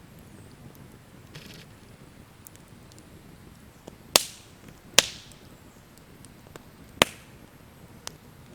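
Three sharp, loud knocks, the first two less than a second apart and the third two seconds later, each with a short ringing tail. Fainter ticks and clicks fall in between.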